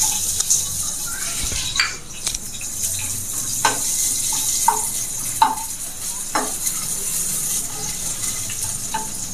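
Chopped onion and capsicum sizzling as they fry in a pan. A spatula knocks and scrapes against the pan about once a second as they are stirred.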